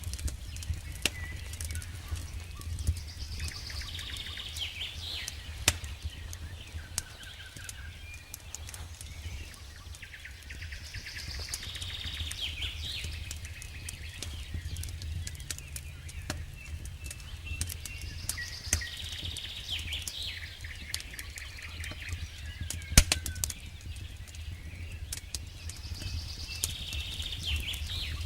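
Campfire burning with a steady low rumble and constant small crackles and snaps of the burning wood, with one loud pop a little after the middle. A bird calls in the background, its call coming back about every eight seconds.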